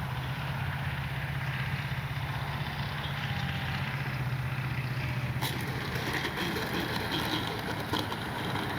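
Electric motor of a 1500 mm FMS Cessna 182 RC plane running at low throttle on landing approach with flaps down, a steady low hum under wind noise, with a few faint ticks in the last few seconds.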